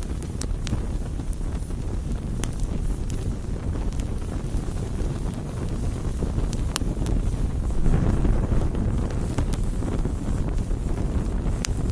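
Wood campfire burning, with a steady low rushing rumble and scattered sharp crackles and pops. The rumble swells briefly about eight seconds in.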